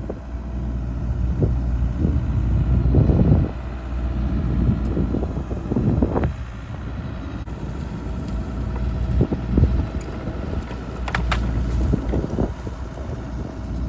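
Excavator's diesel engine running steadily under load as it lifts and drags a fallen acacia tree, with scattered knocks and cracks of wood. The sharpest snaps come a little past the middle.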